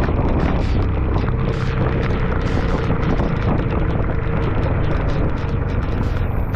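Wind buffeting the microphone on a moving motorcycle in strong wind and rain: a loud, steady rush with a deep rumble underneath.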